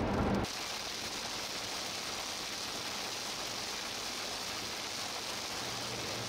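Steady hiss of heavy rain and wet road from inside a moving vehicle. A louder low rumble cuts off suddenly about half a second in.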